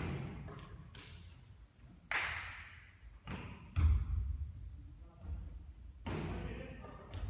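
Basketball bouncing on a court floor, several thuds at irregular intervals with the loudest about four seconds in, and a couple of brief high squeaks.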